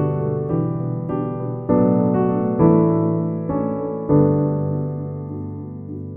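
Piano music: slow chords struck one after another, each ringing on and fading, with the last chord held and dying away over the final two seconds.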